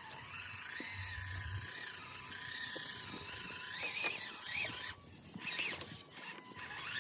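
Micro RC crawler's small electric motor and gears whining, the pitch wavering up and down with the throttle and rising sharply about four seconds in.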